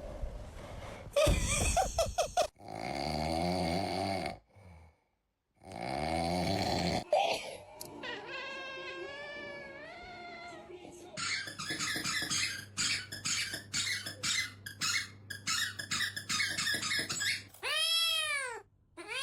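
Domestic cats vocalizing: squeaky cries and meows, with a run of quick clicking noises in the middle; near the end come two meows that rise and fall in pitch.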